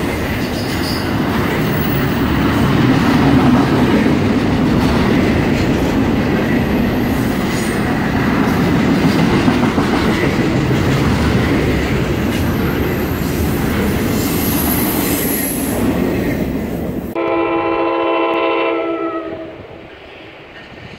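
Double-stack container freight train rolling past close by: a loud, steady rumble and clatter of steel wheels on the rails. About 17 seconds in this cuts off, and an approaching NJ Transit commuter train sounds a chord of several horn notes, held for about two and a half seconds, after which only a quiet, distant rumble remains.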